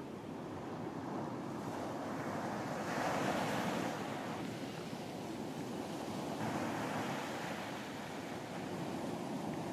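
Sea surf washing onto a beach, a wave swelling about three seconds in and ebbing, another building near the end, with some wind.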